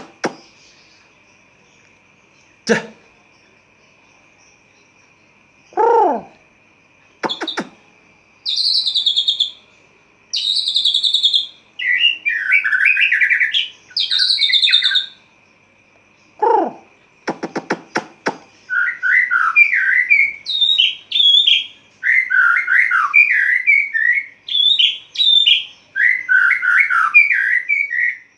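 White-rumped shama (murai batu) singing: loud, varied phrases of whistled and rapid chattering notes, coming thick and almost continuous through the second half, after a few short, lower harsh calls. A steady faint high-pitched tone runs underneath.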